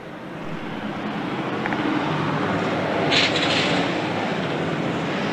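Chevrolet Corvette Sting Ray's V8 engine running as the car drives in street traffic, the noise swelling over the first two seconds and then holding steady. A brief higher-pitched sound cuts in about three seconds in.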